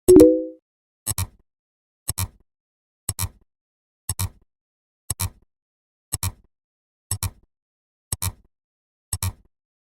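Sound-effect ticks: a short, sharp double click repeating about once a second, with a brief pitched note sounding along with the first click.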